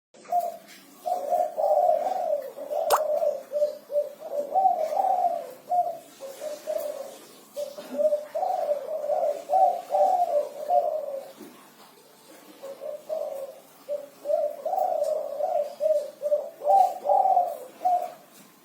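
Spotted dove (derkuku) cooing its multi-note 'kuk 5' song in repeated phrases with short pauses between them. A single sharp click comes about three seconds in.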